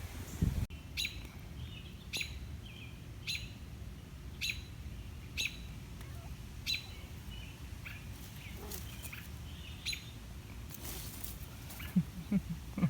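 A bird repeating a short, sharp chirp about once a second.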